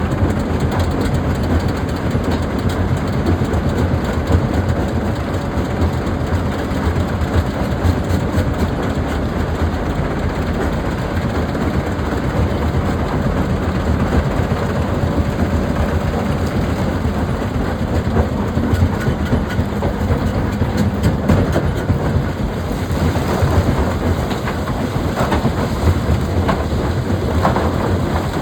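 Heavy machinery running with a steady deep rumble and a continuous rattling clatter, the clatter sharper in the last few seconds.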